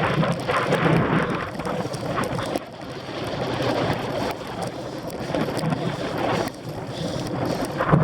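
Wind buffeting the microphone as a cyclocross bike is raced over rough ground, with uneven rattles and knocks from the bike and a rough noise that eases briefly about two and a half seconds in and again near the end.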